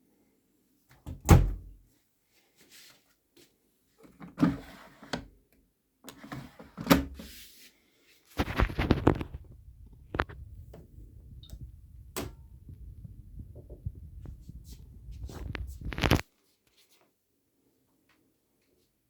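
Siemens WM14VG93 front-loading washing machine starting a wash: a few separate clunks, then about eight seconds of low rumbling with irregular knocks as the drum turns the laundry. The rumbling cuts off suddenly.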